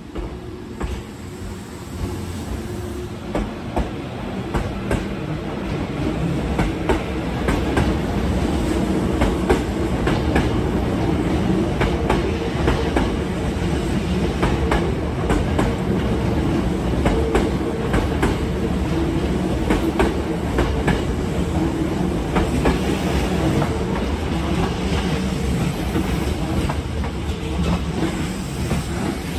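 Hankyu Railway electric commuter trains running past close by. The rumble builds over the first several seconds as the train gathers speed, then holds steady, with the wheels clacking over the rail joints.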